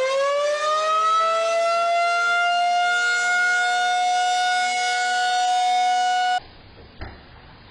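Tornado siren sounding: its pitch climbs as it winds up, then holds a steady, loud wail. It cuts off abruptly about six seconds in.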